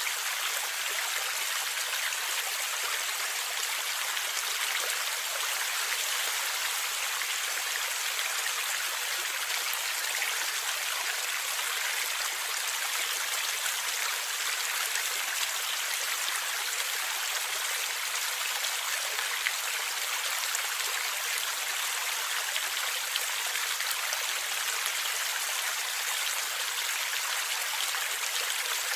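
Stream water flowing and gurgling, a steady even rush of water.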